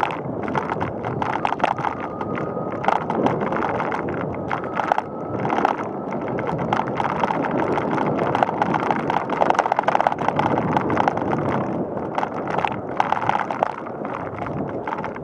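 Bicycle riding over pavement: a steady rush of tyre and wind noise with many small rattles and clicks from the bike.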